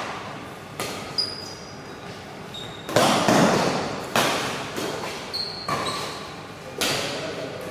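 Badminton rackets striking a shuttlecock in a rally: a few sharp hits one to two and a half seconds apart, echoing in a large hall.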